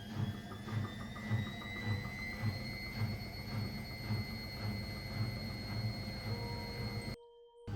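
Electrolux EWM 1044 SEU narrow front-loading washing machine running: its motor whine rises in pitch over the first three seconds and then holds steady, over a low hum that pulses about twice a second. The sound cuts off abruptly near the end.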